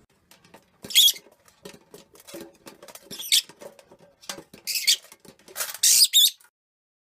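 A bird giving several short, very high-pitched, wavering squeaks, with light clicking and tapping sounds between them.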